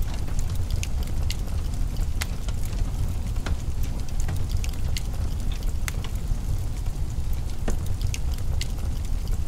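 Wood fire crackling in a fireplace: irregular sharp pops and snaps, several a second at most, over a steady low rumble.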